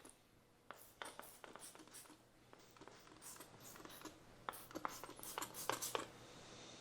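Faint, scattered scratching and light clicks of hands and gear being handled around a tyre during a soapy-water leak check.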